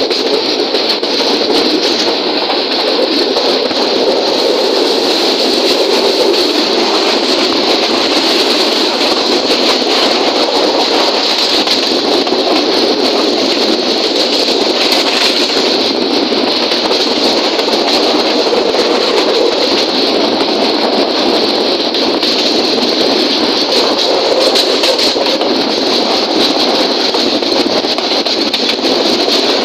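Train in motion: a steady, unbroken noise of wheels running on the rails, with a constant high hiss on top.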